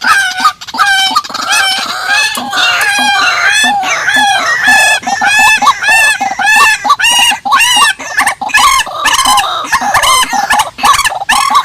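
Calls of rails, purple swamphen and white-breasted waterhen, in a fast run of loud, arched, cackling notes, about two a second.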